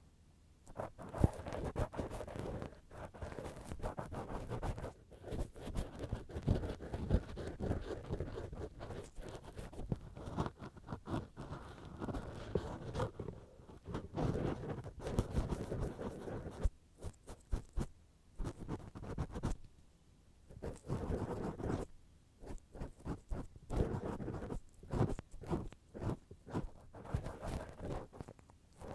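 Ear-cleaning tools scratching and rubbing directly on a binaural microphone's ear, in close, irregular strokes with a few short pauses.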